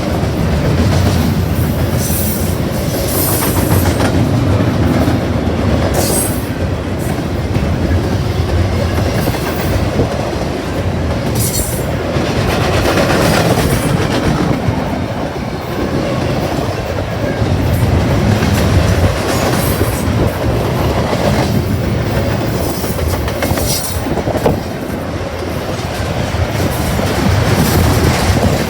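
Long freight train of boxcars rolling past: a steady rumble of the cars with clickety-clack from the wheels and brief wheel squeals coming and going.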